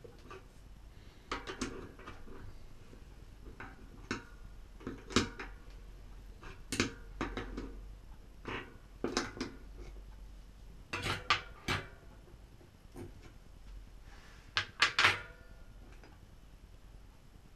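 Irregular clicks and light metal knocks of tools and bicycle hub parts being handled and set down, a few with a brief metallic ring, the loudest about 15 seconds in.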